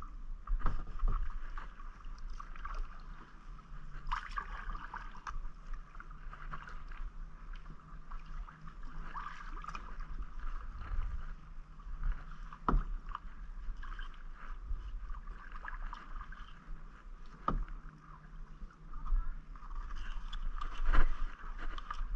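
Kayak being paddled: the paddle dips and splashes in the water in strokes every few seconds, with several sharp knocks, the loudest near the end, over a steady low rumble.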